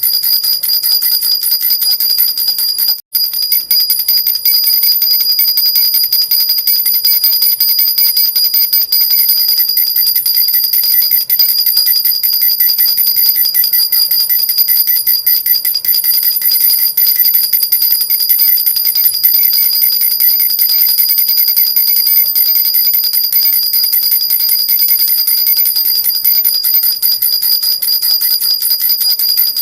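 Metal jhunjhuna baby rattle with small jingle bells shaken steadily, giving a continuous bright jingling with high ringing tones. It breaks off for a split second about three seconds in, then carries on.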